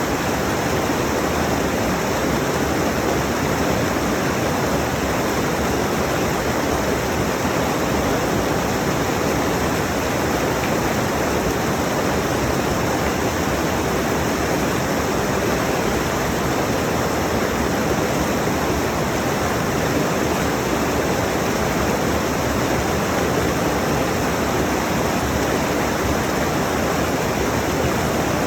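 Rushing mountain stream: a steady, unbroken rush of water over rocks, close up.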